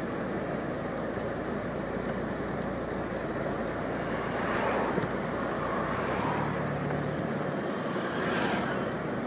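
Street traffic noise: a steady hum of cars, with two louder swells of passing vehicles, one about halfway through and one near the end.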